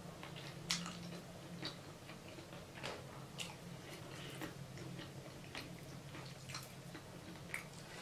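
Close-miked chewing with scattered wet mouth clicks and smacks, about one every second, over a faint steady low hum.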